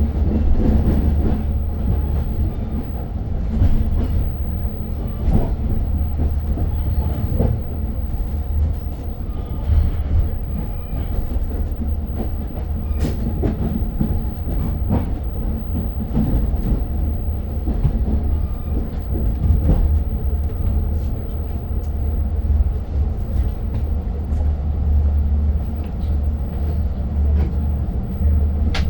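Long Island Rail Road passenger train heard from inside the car while rolling: a steady low rumble with scattered clicks and knocks from the wheels and the car body.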